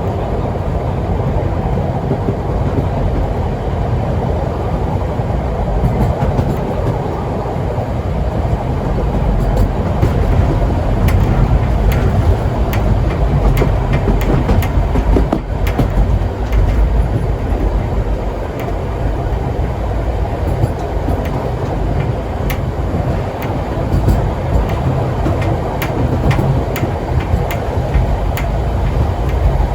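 Historic steam-hauled train running along the track: a steady rumble of carriage wheels on the rails, with irregular sharp clicks and clacks over the rail joints, busiest and a little louder in the middle stretch.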